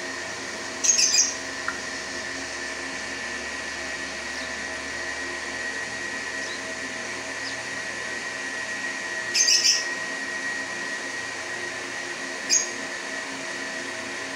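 A small bird chirping in short high bursts: once about a second in and twice more in the second half. Under it runs a steady mechanical hum with several fixed tones.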